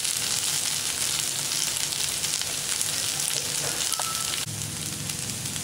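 Par-boiled potato cubes sizzling in hot oil in a frying pan with onion and chillies: a steady frying hiss.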